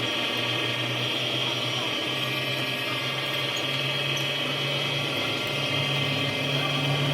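A workshop machine running with a steady, even hum.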